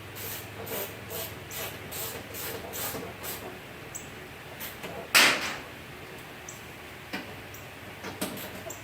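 Hand-tool work on a car door's window regulator mounting. A run of short, even strokes comes at about two or three a second, then one loud metallic knock about five seconds in, then a few light clicks near the end.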